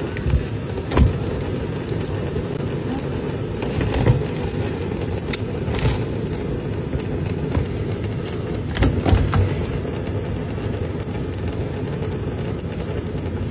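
A pet parrot bathing: scattered splashes and wing flutters over a steady low background noise.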